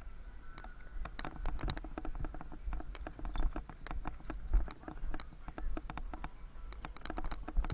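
Bicycle rattling and ticking as it rides, with many quick, irregular clicks over a steady low wind rumble on the microphone.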